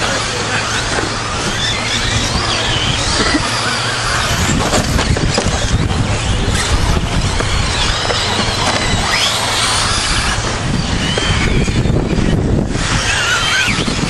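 Several electric 2WD short course R/C trucks racing, their motors whining in overlapping rising and falling pitches as the drivers work the throttles, over a steady low rumble.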